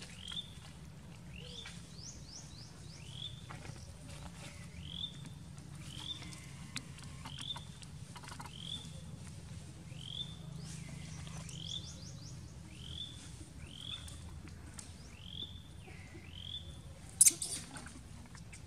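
A bird calling over and over, a short chirp about once a second, twice broken by a quick run of falling higher notes, over a steady low rumble. A single sharp click sounds near the end, the loudest thing heard.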